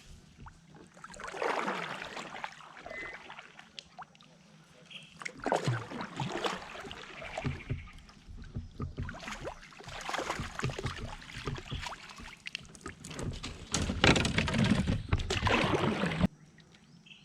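Kayak being paddled and pulled in to the bank while a fish is on: irregular splashes, knocks and scrapes against the hull, busiest about a third of the way in and near the end, where it cuts off suddenly.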